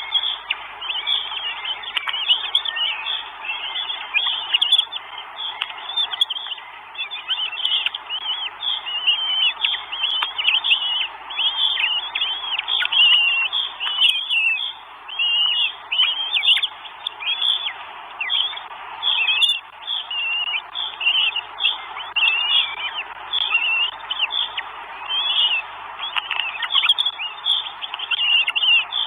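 Birds calling: a dense, steady stream of high, short chirps and quick downward-sliding notes, many overlapping.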